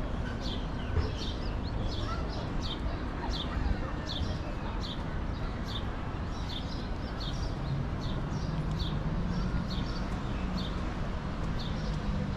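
Small birds chirping over and over in short, high chirps, roughly one or two a second, above a steady city background of traffic noise. A low hum joins in the second half.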